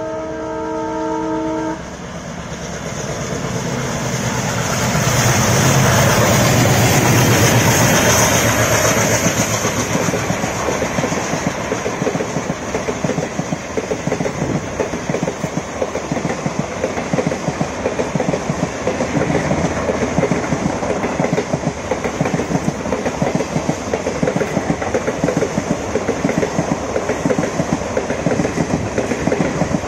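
Twin ALCO diesel locomotives heading a passenger train at speed: a short multi-tone horn blast, then the engines' heavy rumble swells as they pass a few seconds in. Then the coaches clatter over the rail joints in a steady rhythm.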